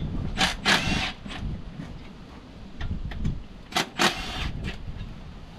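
Two short bursts of rattling and scraping from hard objects being handled, the first about half a second in and the second about four seconds in, with a few lighter knocks between them.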